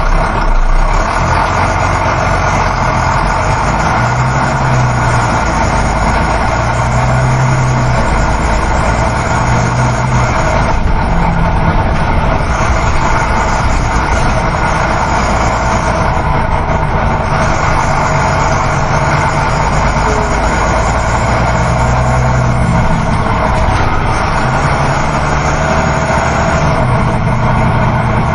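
Coach bus travelling on the road: a steady drone of engine, tyre and wind noise, with a low engine hum that shifts slightly in pitch every few seconds.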